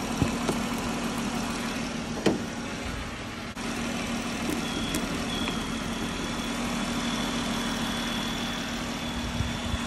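Jeep engine idling steadily, with jumper cables clamped to its battery to jump-start a bus. Two sharp clicks come in the first couple of seconds, and a faint high whine joins about halfway through.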